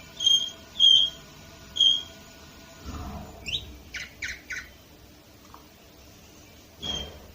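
Domestic canary calling: three short, clear, high notes in the first two seconds, then a quick run of falling chirps. A dull thump about three seconds in, and a single note with a click near the end.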